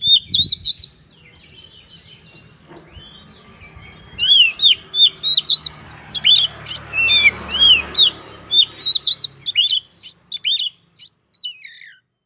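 Oriental magpie-robin singing hard: quick series of loud, sharp whistled notes that swoop up and down in pitch, with a break of about three seconds a second in, then a dense run of notes that stops shortly before the end.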